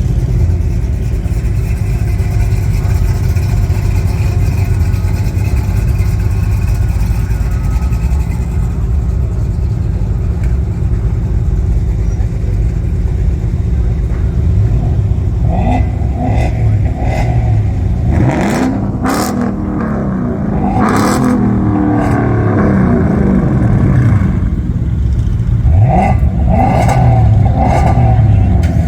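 Car engines running with a steady low rumble, revving up and down several times in the second half.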